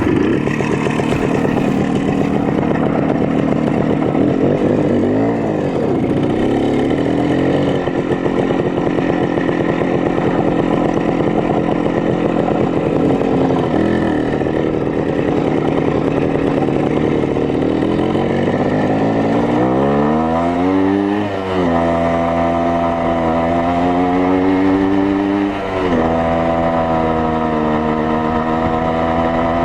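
Minsk 125 motorcycle's single-cylinder two-stroke engine running, revving up briefly a couple of times. Later its pitch climbs steadily and drops sharply twice.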